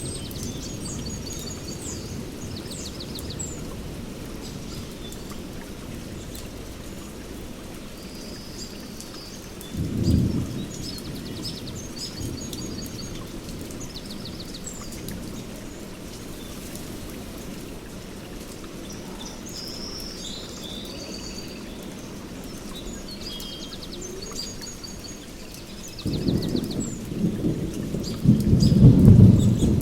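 Steady rain with rumbles of thunder: a short one about ten seconds in, and a longer, louder one that builds near the end. Birds chirp throughout.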